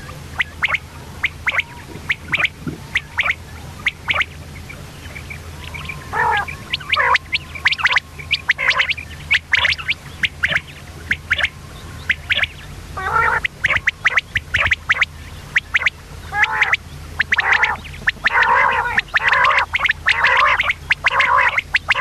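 Common quail calling: a long run of short, sharp notes, some singly and some in quick clusters, coming thicker and louder from about halfway through. A steady low hum lies underneath.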